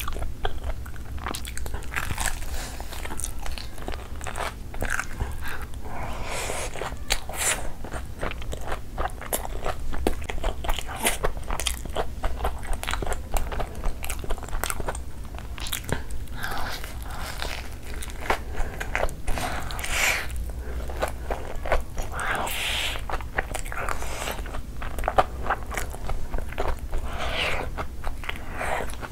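Close-miked biting and chewing of a breaded potato and mozzarella cheese ball, with many small crunches from the crumb coating and wet mouth clicks.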